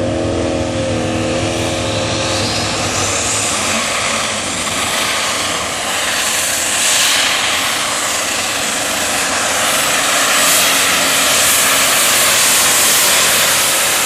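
Super stock pulling tractor's turbocharged diesel engine running at full power, loud and sustained, with a high turbo whine and a thin whistle rising in pitch a few seconds in.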